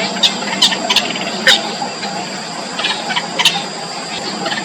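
Yellow bittern nestlings in the nest giving short, sharp squeaky calls in quick irregular clusters, begging to be fed.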